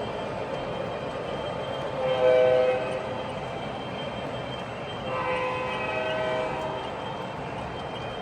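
Model train locomotive's sound system sounding its horn twice, a short blast about two seconds in and a longer one about five seconds in, over the steady rumble of the train running on the track.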